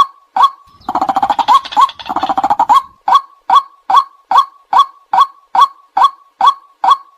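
White-breasted waterhen calling a monotonous repeated 'kwak', about two to three notes a second. Between about one and three seconds in, the notes give way to a harsher, rapid chattering run. This is a recorded lure call of the kind used to draw waterhens in for trapping.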